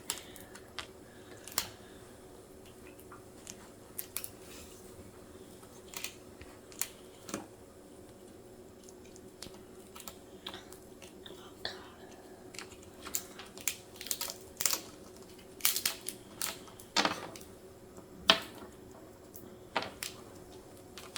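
Baby hamsters scrabbling and nibbling: scattered light clicks and taps, with a few sharper clicks in the second half, over a faint steady hum.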